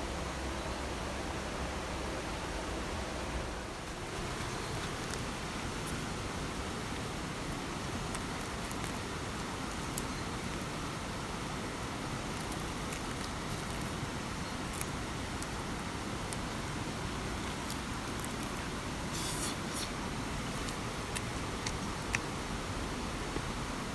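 Steady, even rushing of water, with scattered faint ticks and a brief crackle about three-quarters of the way through.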